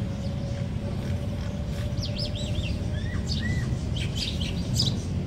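Small birds chirping and warbling in quick short phrases, thickest from about two seconds in, over a steady low rumble.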